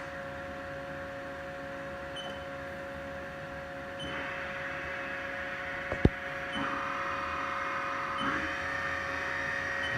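Haas VF-5/40XT CNC vertical mill running with a steady hum and two fixed tones. A higher whine steps up in pitch several times, each step marked by a short beep, and there is a single sharp click about six seconds in.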